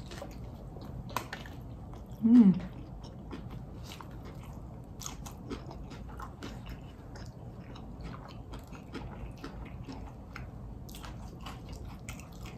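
Close-miked biting and chewing of a fried chicken sandwich: wet mouth clicks and small crunches throughout. About two seconds in comes a short, loud hummed sound that falls in pitch.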